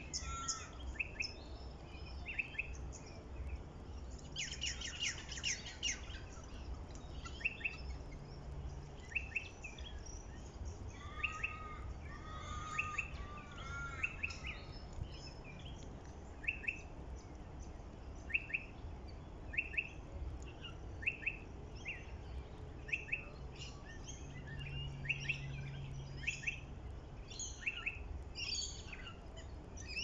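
Wild birds calling in bushland: one bird repeats a short, sharp, falling note about once a second while others chirp around it, with a brief rapid run of notes about four seconds in. A low steady rumble sits underneath.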